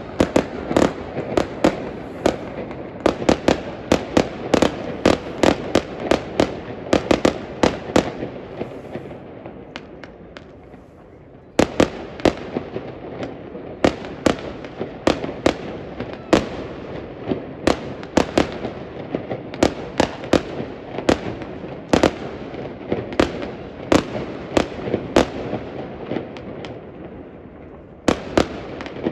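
Fireworks display: a dense run of sharp bangs from bursting shells over continuous crackle, easing briefly before a fresh volley about twelve seconds in.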